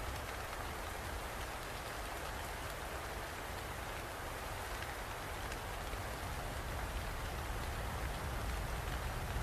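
Steady rain falling, with scattered individual drops ticking through it over a low, steady rumble.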